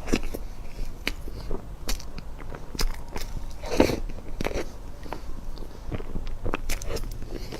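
A person eating dessert close to the microphone: bites and chewing, with many irregular sharp mouth clicks and a couple of louder bites.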